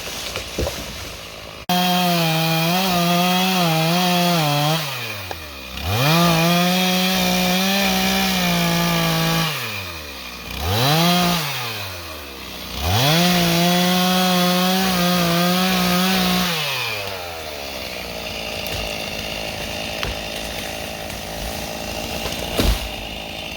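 Chainsaw run at full throttle in several long bursts. Between bursts the engine drops back toward idle, then revs up again. For the last several seconds it idles steadily.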